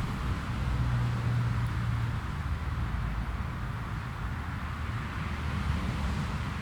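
Jet airliner engines giving a low, steady rumble with a faint drone, easing off slightly as the aircraft moves away.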